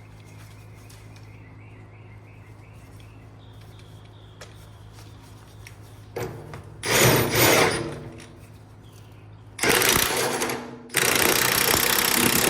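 Impact wrench running a U-bolt nut down on a truck axle in three loud bursts, about six, ten and eleven seconds in, the last one carrying on at the end, until the nut is snug. A steady low hum lies underneath throughout.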